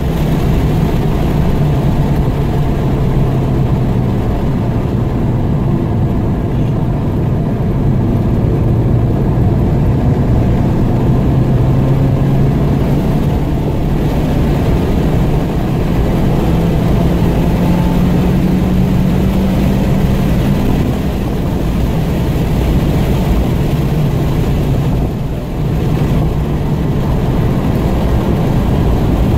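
Car engine pulling in third gear at around 4,000–5,000 rpm, heard from inside the car on a track lap. The engine note rises and falls through the corners and dips briefly near the end as the throttle comes off.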